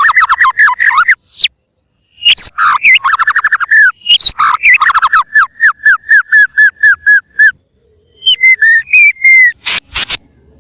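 White-rumped shama (murai batu) in full song: fast runs of repeated, downslurred whistled notes, broken by a short pause about two seconds in and another near the end, followed by a few sharp clicks.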